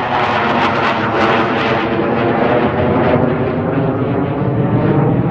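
Military jet taking off, its engines very loud, a dense steady jet noise with many engine tones.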